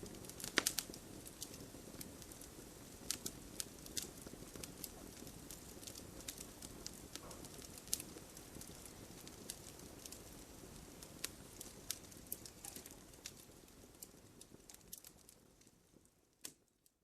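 Wood campfire crackling: irregular sharp pops and snaps over a low, steady hiss of burning. The sound fades out near the end, with one last pop.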